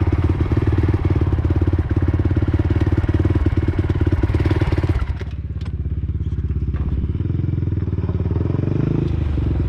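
Honda sport quad's single-cylinder four-stroke engine running on the trail under throttle. About five seconds in it drops back to a lower, quieter running as the throttle eases off, then picks up a little near the end.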